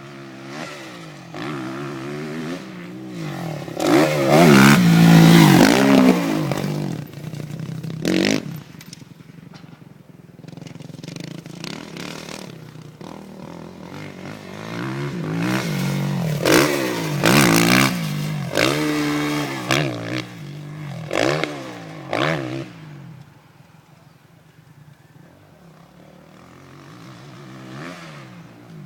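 Kawasaki KX450F motocross bike's four-stroke single-cylinder engine revving up and down repeatedly as it is ridden hard, with loud bursts of throttle about four to six seconds in and again from about sixteen to twenty-two seconds, then a quieter stretch near the end.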